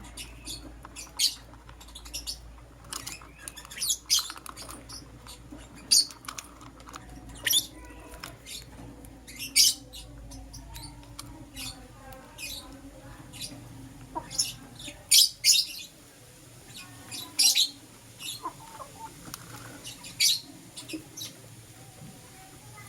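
Pet lovebirds chirping: short, sharp, high-pitched chirps at irregular intervals, a few louder ones among them, with a faint low hum underneath that fades out about two-thirds of the way through.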